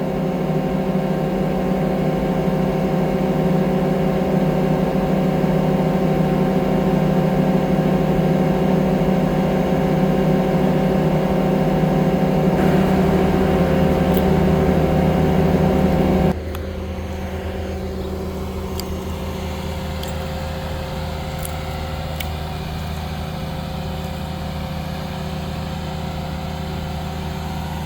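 Engine running steadily at high speed, then dropping abruptly to a lower, quieter steady note about sixteen seconds in.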